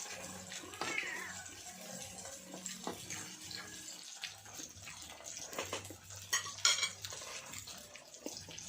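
Cutlery clinking and scraping against dishes and a grill pan, in scattered small clicks with a sharp clatter about six and a half seconds in.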